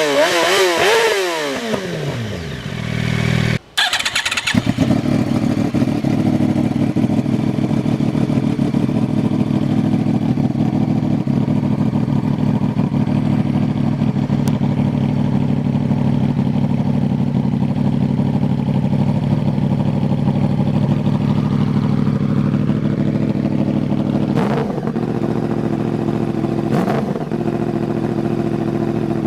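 Yamaha R1 inline-four engine revved up and down through its exhaust. After a brief break it settles into a steady idle, with two short throttle blips near the end.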